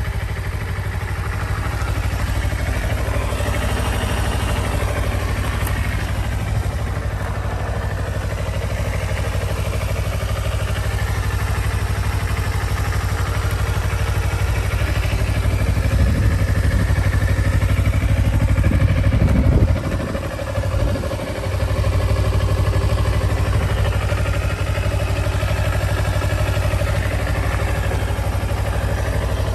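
Kawasaki Ninja 250R engine idling steadily, running smoothly. It swells for a few seconds about two-thirds of the way through, then dips sharply before settling back to idle.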